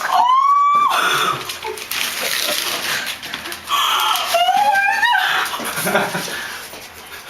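A woman's high-pitched excited squeals, one in the first second and another, rising, around four to five seconds in, with breathy noise between them.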